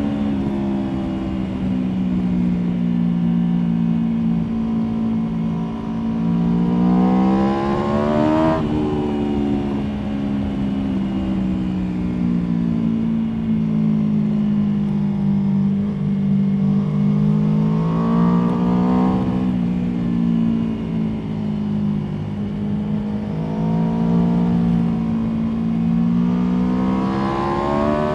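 Aprilia Tuono V4 motorcycle's V4 engine under way. Its pitch climbs steeply under hard acceleration about a quarter of the way in, then drops as the throttle closes. It rises again around two-thirds of the way through and once more near the end, falling back between.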